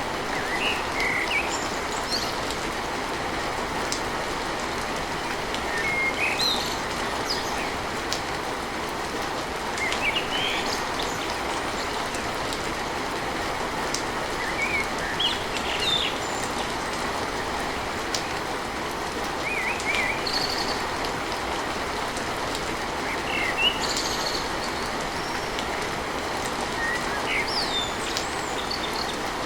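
Steady heavy rain drumming on a tin roof, with birds chirping briefly every few seconds over it.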